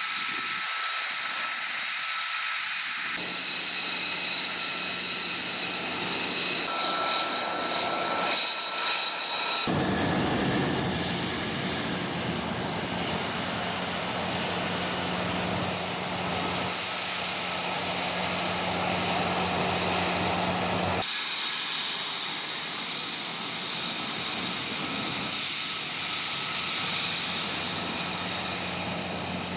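Jet aircraft engine noise: a steady rush with high, steady whining tones. Its pitch and strength change abruptly about three times.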